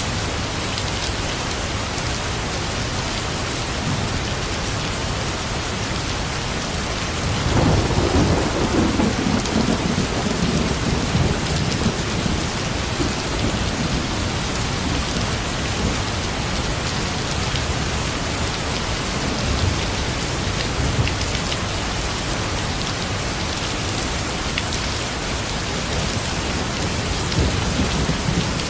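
Steady rain falling. A low roll of thunder swells about a quarter of the way in and rumbles for several seconds before fading.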